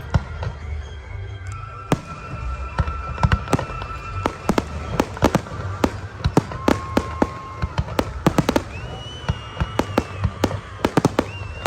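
Aerial fireworks going off in a rapid, irregular series of sharp bangs and cracks over a steady low rumble, with the bursts coming thickest in the second half.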